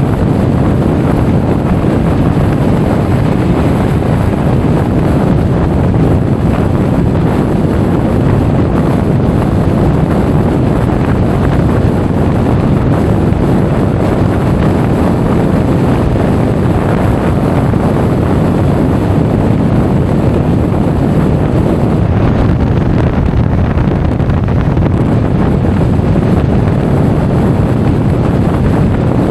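Wind rushing over an action camera's microphone on a Honda Forza 350 scooter riding at speed: a loud, steady rumble with no let-up.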